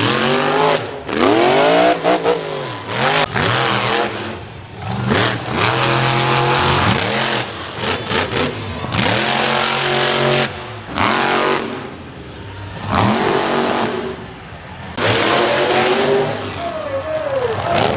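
Monster truck engines revving hard again and again, the pitch climbing and dropping with each burst of throttle.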